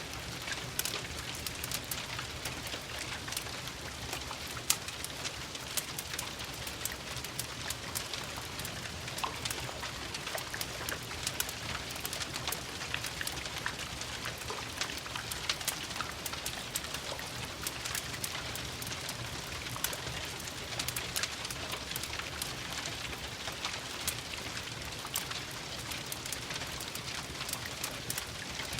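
Steady rain pattering, mixed with the dense small pops and crackles of a fireplace, with one louder pop about five seconds in.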